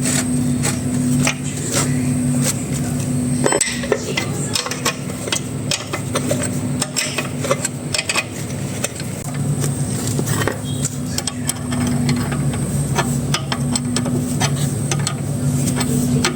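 Many light metallic taps and clinks, irregular and a few each second, from tools and metal parts being handled during a small engine repair, over a steady low hum.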